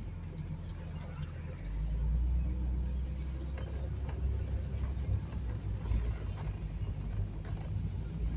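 1988 BMW 325i's 2.5-litre straight-six running at low revs while the car rolls slowly, with road and tyre rumble, heard from inside the cabin. The rumble grows louder a little under two seconds in and then holds steady.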